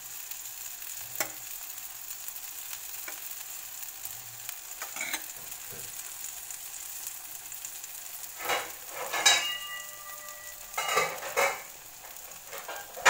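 Marinated chicken tikka pieces frying in oil on a ridged grill pan, a steady sizzle. In the last few seconds, several loud clatters, one leaving a short ring.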